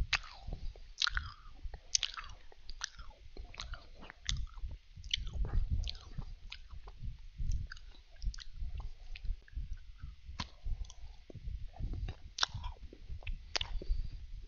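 A person chewing and biting Danish butter cookies close to a headset microphone: crisp crunches at irregular intervals over a low chewing rumble.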